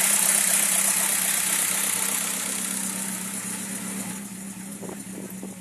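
A car engine running close by, steadily fading over a few seconds.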